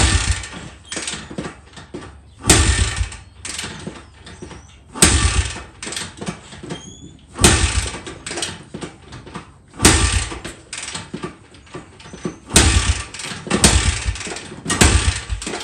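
2005 Honda CRF80's single-cylinder engine being kick-started about eight times, each kick turning it over briefly, roughly every two and a half seconds and then quicker near the end. It never catches: the engine turns over but won't fire, which the owner takes for a carburettor problem.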